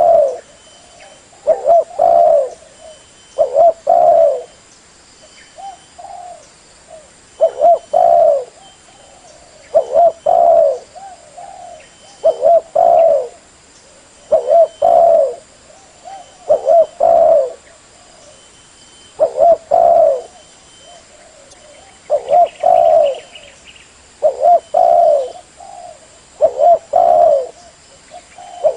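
Spotted dove (terkukur) cooing: a repeated phrase of two or three low coos, given about every two to two and a half seconds.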